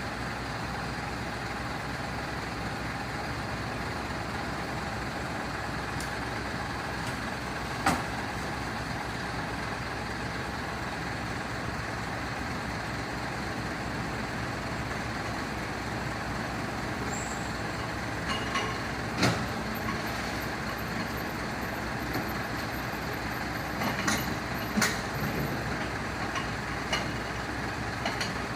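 Fire truck engine idling steadily, with a few sharp clicks and knocks over it, the loudest about a third of the way in and again about two-thirds in.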